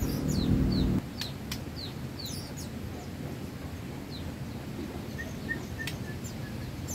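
Scattered short bird chirps: quick high notes that fall in pitch, a few brief steady notes among them. A low hum cuts off abruptly about a second in.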